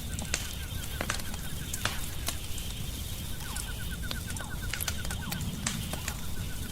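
Wood fire crackling in a fireplace, with irregular sharp pops over a low steady rumble. A faint rapid ticking trill, about ten ticks a second, runs under it much of the time.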